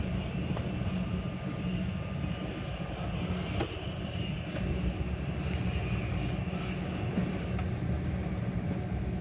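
Metra commuter train running at speed, heard from inside a passenger car as a steady low rumble.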